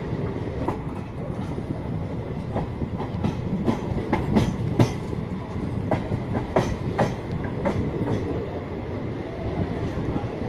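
Train wheels running over the rails: a steady rumble with sharp clacks over rail joints, which bunch together about four to eight seconds in.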